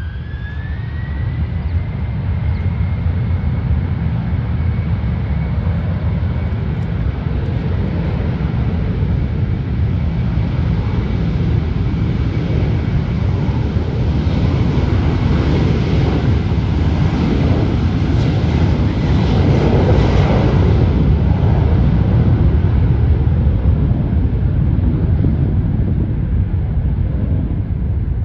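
Airliner's jet engines spooling up with a rising whine that settles into a steady high tone, under a loud, dense engine rush. The noise builds, is loudest about two-thirds of the way through, then begins to fade.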